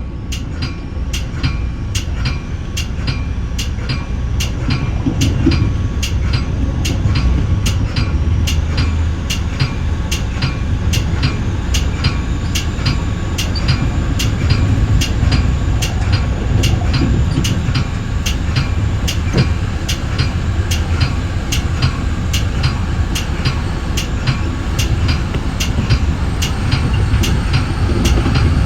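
Metra bi-level commuter car running at speed on the rails: a steady low rumble of wheels on track, with sharp clicks about twice a second.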